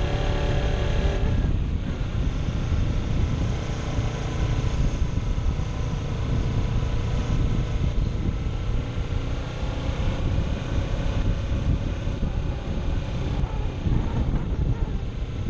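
Kawasaki Ninja 250SE's parallel-twin engine running while riding at road speed, with heavy wind and road rush on the camera microphone. The engine note breaks off briefly about a second and a half in, then carries on steadily.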